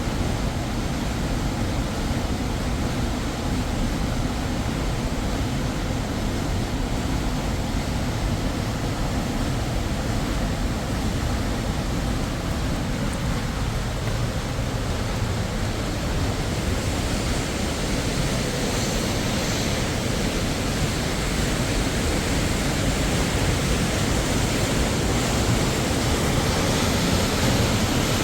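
Steady rushing noise of a waterfall, growing a little louder and brighter in the second half.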